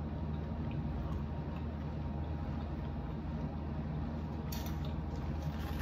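Steady low hum with faint scattered clicks of someone chewing a taco, a little busier near the end.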